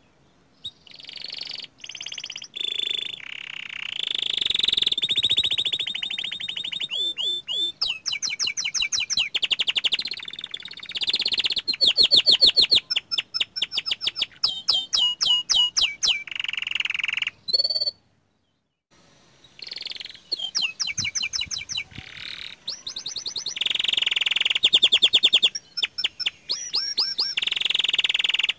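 Young canary singing a long, varied song of rapid trills and quickly repeated chirping notes, broken by a pause of about a second past the middle.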